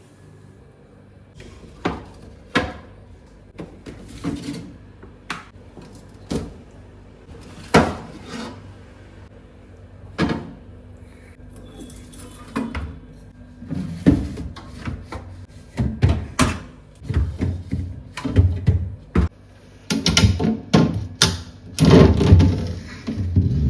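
Food containers and items being handled, set down and slid about on fridge shelves and drawers: irregular clicks, knocks and thuds, busier and heavier in the second half.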